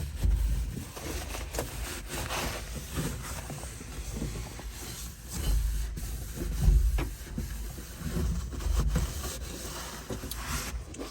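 Irregular rubbing and scraping with scattered clicks and low thumps, as caked dust is cleaned by hand off furnace blower parts.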